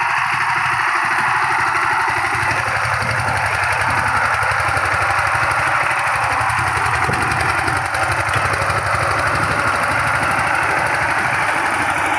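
Power tiller engine running steadily, with a fast, even chugging beat.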